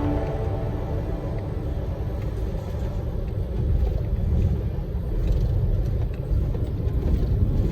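Large truck driving along, a steady low rumble of engine and road noise.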